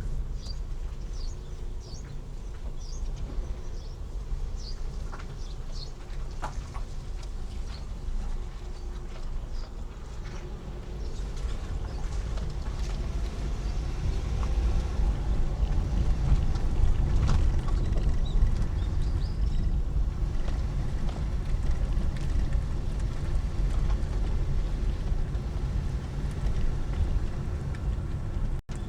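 Low, steady rumble of a car driving: engine and road noise, growing louder about halfway through. There are faint high chirps near the start, and the sound cuts out briefly just before the end.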